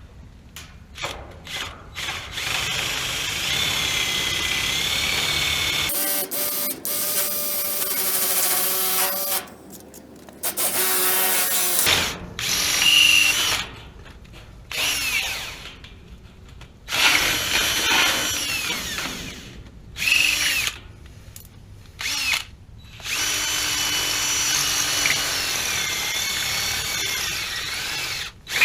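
Power drill running in repeated bursts of a few seconds each, stopping and restarting, its whine rising and falling as the speed changes.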